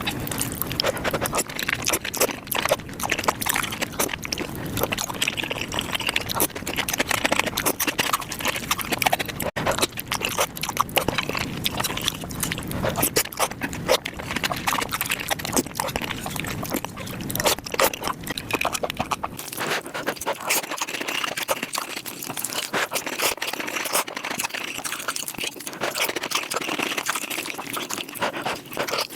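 Close-miked eating sounds played back at five times speed: a fast, dense run of chewing, slurping and wet mouth clicks from noodles and rice cakes. The speed-up turns the slurps into squeaky, animal-like noises.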